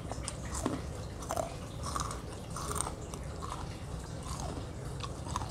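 A mouth chewing crunchy spicy basreng (fried fish-cake chips), with irregular crisp crunches.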